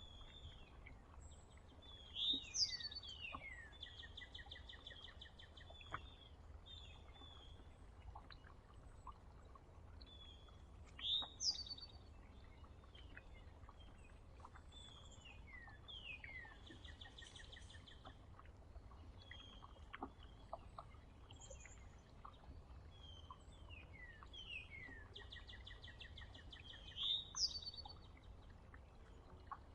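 A songbird singing the same short song about four times, each a few sharp downslurred notes followed by fast trills, one higher and one lower, with scattered short chirps from other birds between songs.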